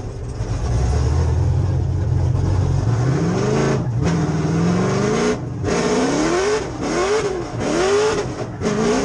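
6.0-litre LS V8 (LQ9) engine in a drift car, running steadily and low for about three seconds, then revving up and falling back several times in quick succession, with short dips between the sweeps.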